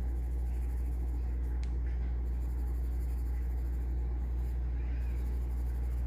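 Pencil scratching on paper as it draws and shades, over a steady low hum.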